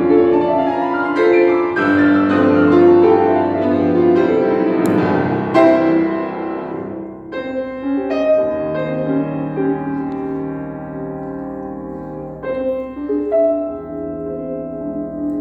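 Solo piano music: a quick run of notes for the first half, then slower held chords from about seven seconds in.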